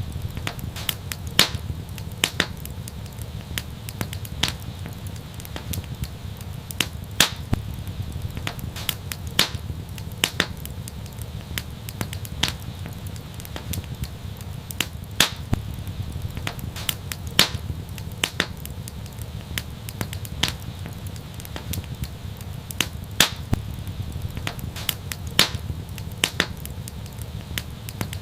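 Wood fire burning in an outdoor fireplace, crackling with irregular sharp pops and snaps over a steady low rumble.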